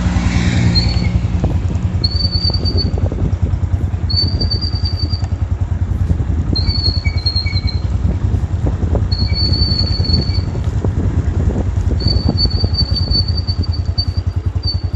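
Motorcycle drum brake squealing: about six high, thin squeals of a second or so each, the last one longest, over the steady running of the motorcycle's engine. The uploader puts the squeal down to brake-lining dust mixed with water into a slippery paste inside the drum hub, as happens after a service or riding in rain.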